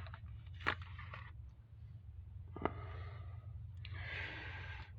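A person breathing audibly at close range, with one longer breath near the end, over a steady low hum. Two short sharp clicks come under a second in and just past halfway.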